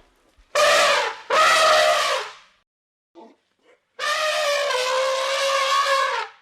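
An animal calling: two calls of about a second each in quick succession, then after a short pause one longer call of about two seconds at a steady pitch.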